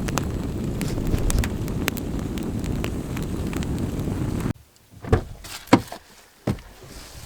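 Campfire burning and crackling. For the first four and a half seconds a low rumble, like wind on the microphone, sits under scattered crackles; after a sudden cut, a few sharp pops of burning wood stand out over quiet.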